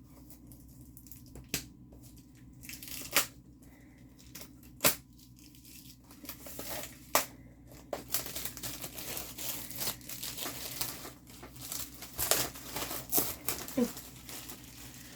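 Packaging of a diamond painting kit crinkling and rustling as it is handled. There are a few separate sharp clicks in the first half, then denser crinkling from about halfway through.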